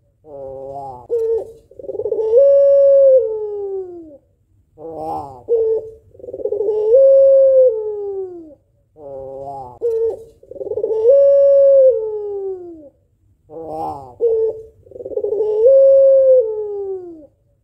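White female Barbary dove (puter pelung) cooing about four times. Each call is a short rolling stutter followed by a long, drawn-out note that holds and then slides down in pitch. This long melodious ending is what pelung doves are kept for.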